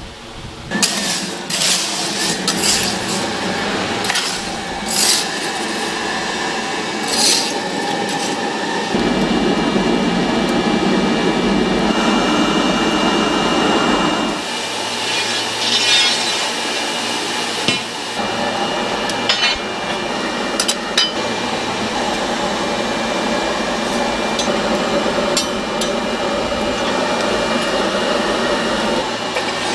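Workshop tool noise: scattered knocks and clinks of hand work, with a stretch of steadier, denser noise about a third of the way in.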